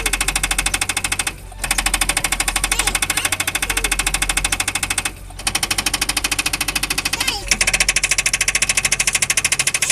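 A machine running with a rapid, even clatter of many strokes a second. It stops briefly twice, then runs louder and brighter about seven and a half seconds in.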